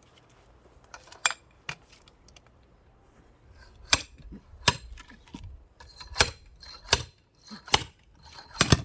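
Axe blows on a firewood round: a string of about eight sharp knocks. They come roughly every three-quarters of a second in the second half, and the loudest is near the end.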